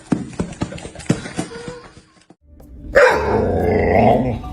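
Dog barking and growling: a quick run of short sharp sounds, then a louder, drawn-out stretch from about three seconds in.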